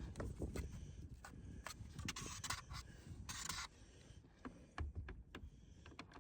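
Scraping and rustling of someone moving about and handling tools and materials in a tight crawl space, with scattered clicks and knocks and two short scraping passes in the middle.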